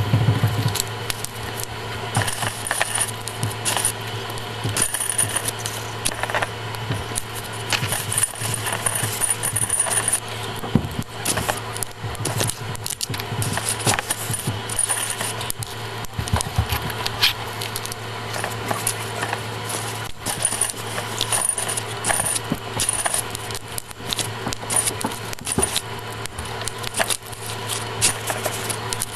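Plastic Lego bricks and pieces clicking, snapping and rattling in quick succession as a set is built, over a steady low hum.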